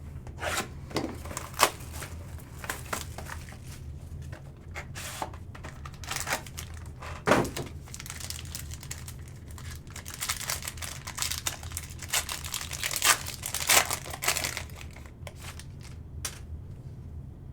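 Plastic wrap and packaging of a sports-card box being torn open and crinkled, with cards and cardboard handled: a run of short crackles and rips, busiest from about ten to fourteen seconds in.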